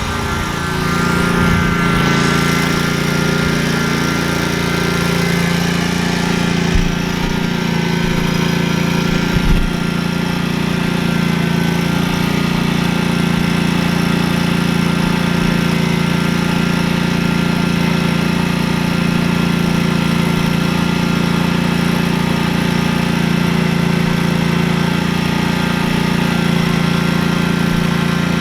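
An engine running steadily at a constant speed, with two short knocks about seven and nine and a half seconds in.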